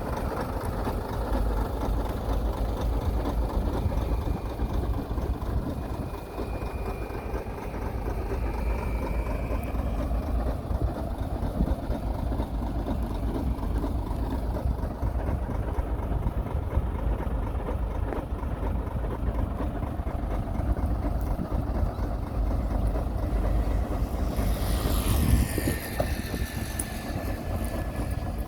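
Heavy diesel earthmoving machinery running steadily with a deep engine rumble, with a brief high metallic squeal near the end.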